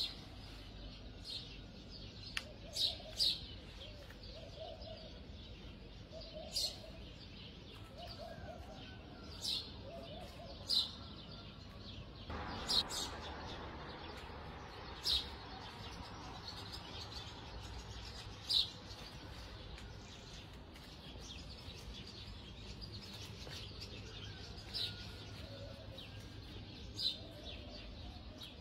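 Birds chirping: short sharp calls every second or two, with a low cooing in places and a brief rush of noise about twelve seconds in.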